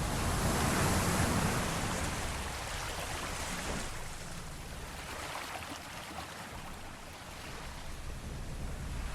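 Sea waves washing against a ship's hull: one swell washes through and ebbs away, and the next begins to build near the end.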